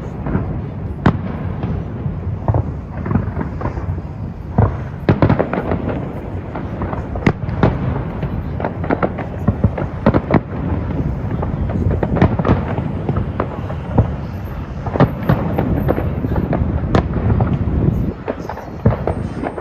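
Firework display: a rapid, irregular barrage of shell bursts and crackling bangs over a continuous low rumble of explosions.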